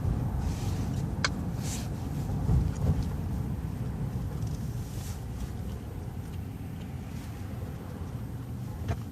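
Steady low road and engine rumble heard inside a moving vehicle's cabin, with a couple of faint clicks about a second in.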